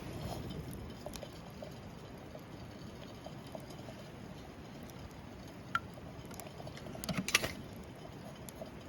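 Wood campfire burning with a low steady rush and scattered small crackles, then a quick run of sharper, louder pops about seven seconds in.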